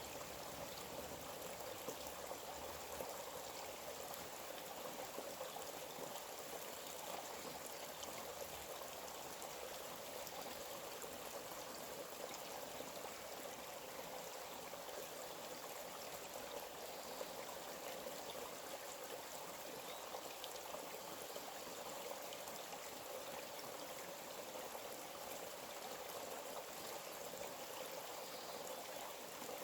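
Forest stream flowing steadily, a continuous sound of running water.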